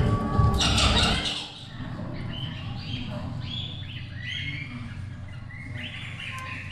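Parrots chirping and squawking in many short, repeated calls. In the first second or so a louder jumble of noise with knocks covers them.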